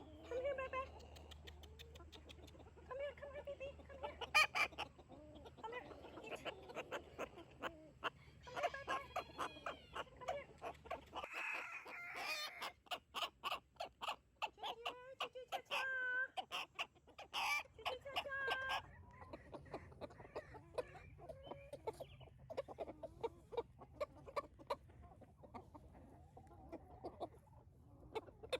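Chickens clucking: a flock giving many short calls, busiest and loudest in the middle stretch.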